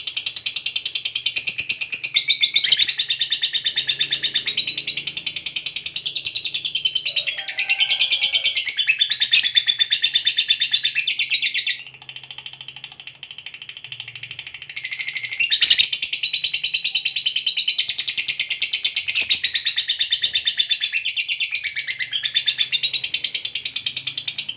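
A lovebird's long, fast chattering trill (ngekek): runs of rapid, shrill, high notes lasting several seconds each. About twelve seconds in it drops to quieter twittering for a couple of seconds, then the trill starts again.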